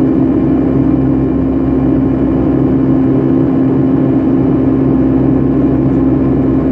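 Steady jet engine and airflow drone heard inside the passenger cabin of a Boeing 757-300, with a constant low hum under it.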